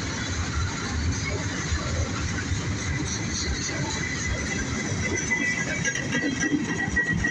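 Freight train cars rolling past: a steady rumble and clatter of wheels on rail, with a thin high squeal coming in about five seconds in.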